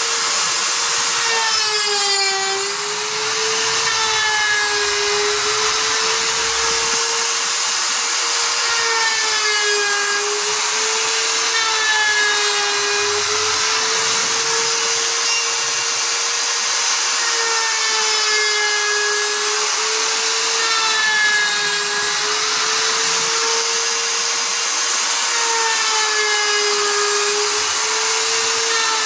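Router in a planing jig cutting across rough sawn lumber: the motor runs steadily, its tone sagging slightly every couple of seconds as the bit loads up in the wood, over the hiss of the cut.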